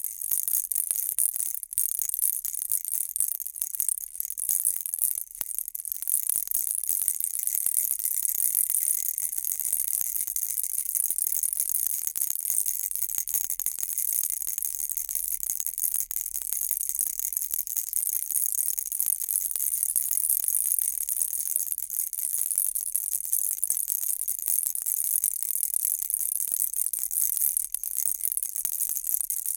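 Baby rattle shaken without a break, a dense bright jingling rattle of many small beads.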